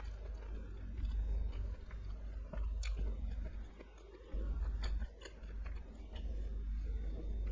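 Close-miked person chewing food, with scattered sharp mouth clicks, the clearest about three seconds and five seconds in, over a steady low hum.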